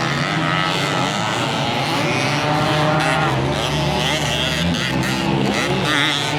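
Several dirt bike engines racing at once, their pitches rising and falling as the riders work the throttles.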